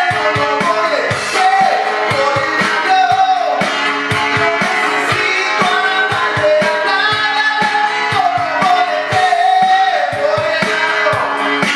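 A voice singing a song in Spanish with instrumental accompaniment and a steady beat.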